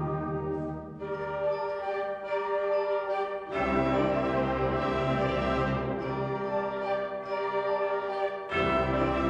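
A school wind ensemble plays sustained chords of brass and woodwinds. The low instruments drop out about a second in and come back with the full band about three and a half seconds in, then drop out and re-enter once more near the end.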